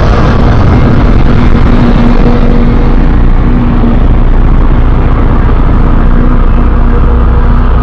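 Custom giant-monster sound effect: a loud, steady, rumbling noise with a faint droning tone held through it.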